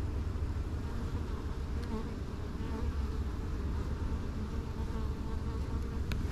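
Swarm of honey bees buzzing steadily around an open hive, over a steady low rumble, with a sharp click near the end.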